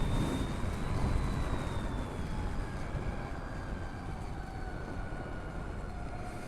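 Wind and road rumble on a helmet-mounted camera while riding a Harley-Davidson LiveWire electric motorcycle, with the faint whine of the electric motors sliding slowly up and down in pitch as the speed changes.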